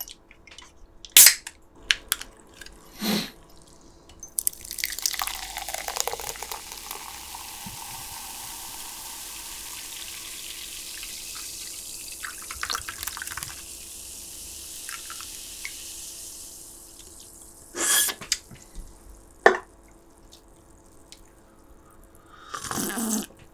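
A drink poured into a glass: a splashing onset that settles into a long steady hiss of liquid lasting about a dozen seconds. A few sharp clicks or clinks come before and after it.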